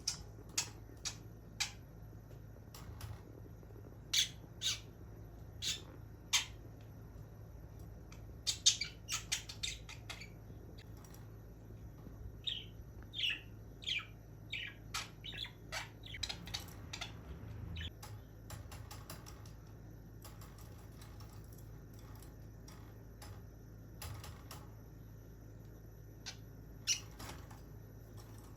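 Budgerigar giving short, sharp chirps and squawks, sometimes in quick runs, that thin out over the last third, with a few light clicks among them. The calls come from a budgie agitated at being kept in its cage.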